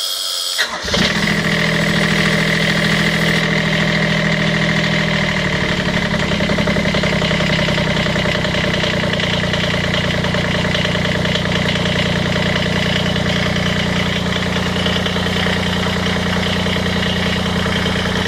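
Dingo 950D mini skid-steer's diesel engine cold-starting: it cranks briefly and catches about a second in, then runs at a steady idle, its note shifting slightly after about five seconds.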